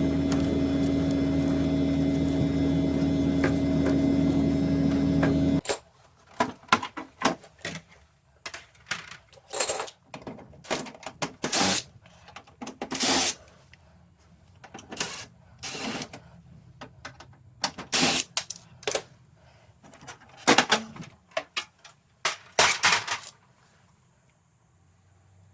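Samsung wind-free floor-standing air conditioner running with a steady pitched hum, which stops abruptly about six seconds in. After that come irregular clicks, clacks and knocks of hard parts being handled.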